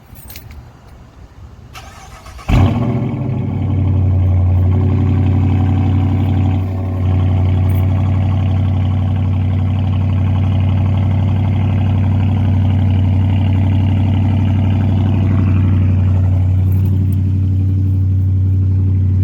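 Dodge Charger R/T's 5.7-litre HEMI V8 cranked by the starter and firing about two and a half seconds in with a loud flare, then settling into a steady idle that dips briefly around seven seconds in. It breathes through aftermarket Black Widow Neighborhater mufflers with the resonators deleted, started warm rather than truly cold.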